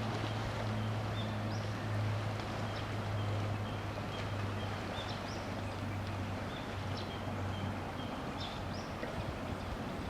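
Steady low drone of a large ship's engine, under a broad hiss of wind and water, with short high chirps scattered through.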